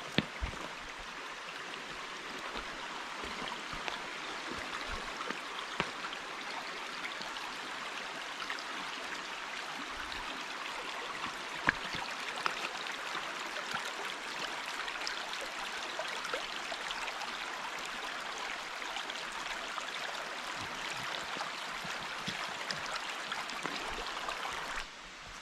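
Forest stream babbling steadily, with a couple of short clicks; the sound drops away suddenly near the end.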